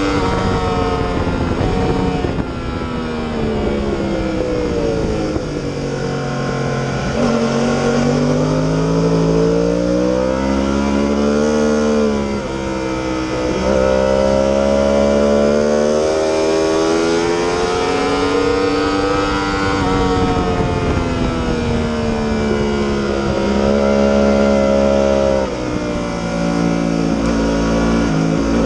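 Yamaha R1 sport bike's inline-four engine run hard around a race track, its pitch climbing under acceleration with sharp steps at each gearshift, then dropping away under braking and downshifts several times.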